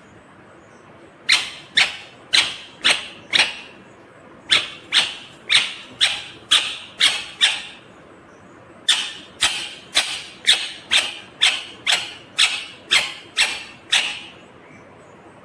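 Indian ringneck parakeet calling: short, sharp, high calls about two a second, in three runs with brief pauses between them.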